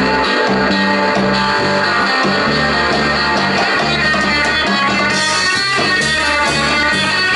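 Live rock 'n' roll band playing an instrumental break of a rumba-beat blues: electric guitar over bass and drum kit.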